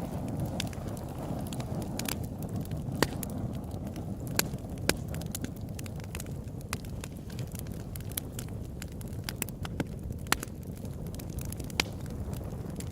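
Open-air wood campfire burning: a steady low rumble of flame with irregular sharp crackles and pops, a few of them loud.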